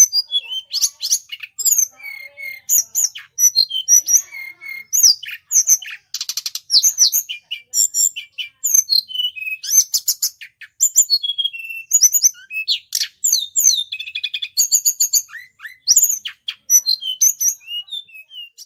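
Flowerpeckers (tledekan) giving a rapid, continuous stream of sharp, high-pitched chirps and short slurred notes, with a brief buzzy trill about six seconds in. This is lure calling, played to draw the birds in.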